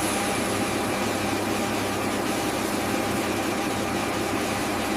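A steady engine drone under a strong, even hiss, holding one pitch throughout.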